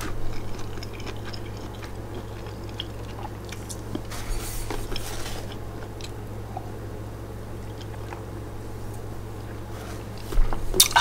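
A person chewing a mouthful of naan-bread pizza close to the microphone: soft wet mouth and chewing sounds over a steady low hum, with a louder sharp noise near the end.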